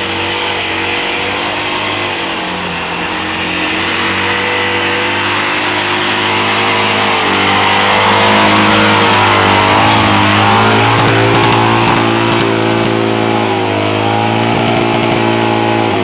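Citroën Dyane's small air-cooled flat-twin engine held at high, steady revs under power as the car climbs a slippery muddy track, growing louder as it comes close, with a few sharp clicks as it passes.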